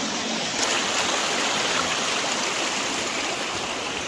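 Water rushing over rocks in a hill stream below a waterfall, a steady, even rush that gets a little louder about half a second in.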